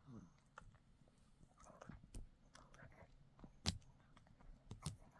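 A dog chewing and gnawing on a dog chew treat, with faint, irregular crunches and clicks of its teeth; the loudest crunch comes about two-thirds of the way through.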